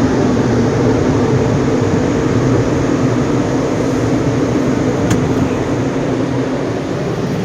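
Automatic tunnel car wash equipment running with a loud, steady rushing noise that slowly fades toward the end.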